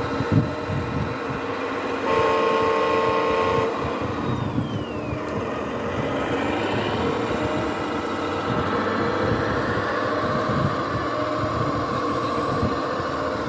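Whine of small electric motors and gearing in radio-controlled model machines running, several steady tones that shift as they work, louder for about a second and a half near the start, with one falling whine a little later.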